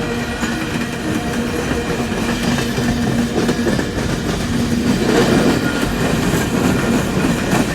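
Coal train cars rolling past close by, with a steady rumble and wheels clicking over the rail joints. The sound grows louder about five seconds in and again near the end.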